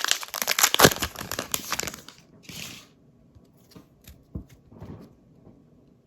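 Trading card pack wrapper crinkling and being torn open for about two seconds, with one more short rustle a little later, then a few faint taps as the cards are handled.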